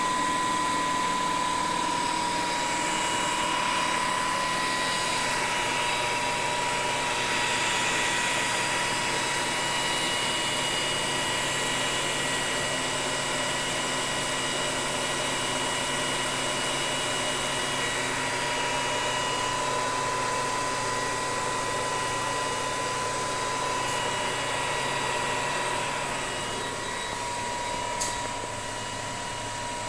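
Electric motor running on a Lenze 8400 StateLine C frequency inverter in a test run after repair: a steady high whine with overtones over an even hiss. It gets a little quieter near the end, with one sharp click shortly before it ends.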